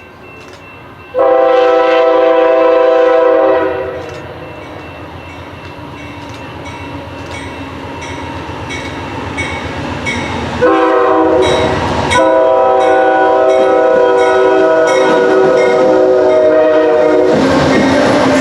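Locomotive air horn sounding a multi-tone chord, a blast of about two and a half seconds, then the rumble of an approaching train building up, then the horn sounding again and held, over the clatter of the passing train.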